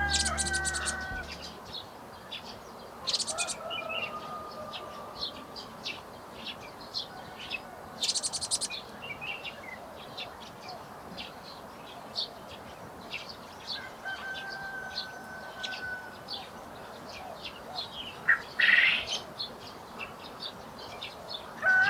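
Garden songbirds chirping steadily with many short, high calls, broken by a few rapid trills and some held whistled notes.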